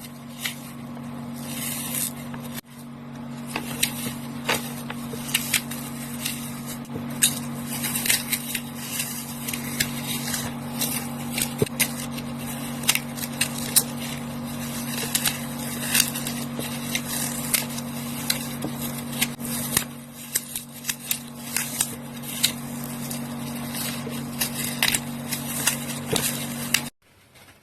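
Dry floral foam being crushed close up, a dense crunchy crackle of many small snaps in quick succession. A steady low hum runs underneath and stops with the crackling near the end.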